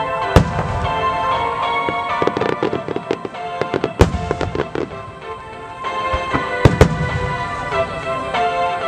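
Large aerial firework shells bursting in a rapid barrage: sharp bangs, a couple close together about seven seconds in, with bursts of crackle between them. Music plays underneath.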